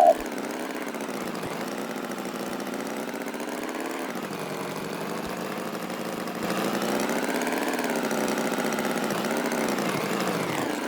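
An engine running steadily, its pitch slowly wavering, getting louder about six seconds in.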